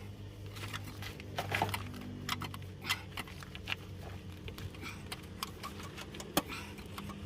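Metal tools clinking and tapping in irregular light clicks during truck repair work, over a steady low hum.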